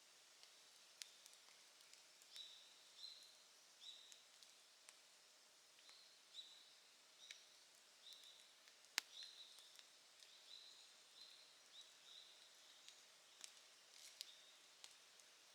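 Wood campfire crackling faintly, with scattered sharp pops, the loudest about nine seconds in. From about two seconds in, a bird chirps repeatedly in short high notes, roughly twice a second.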